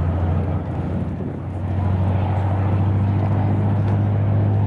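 An engine running steadily with a low, even hum, dipping slightly in loudness about a second in.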